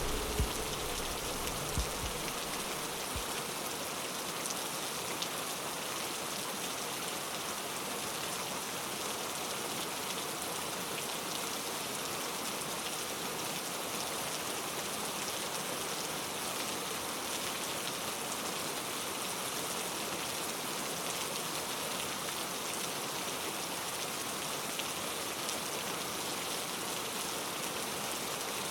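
Steady rain falling, an even hiss with scattered drop ticks. A low rumble dies away in the first few seconds.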